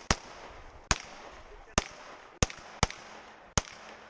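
Pistol shots fired in a timed practical-shooting stage: six shots at uneven spacing, mostly under a second apart.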